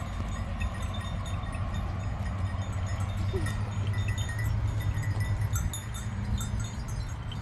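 Outdoor ambience of a steady low rumble, with faint ringing of livestock bells and one short faint animal call about three seconds in.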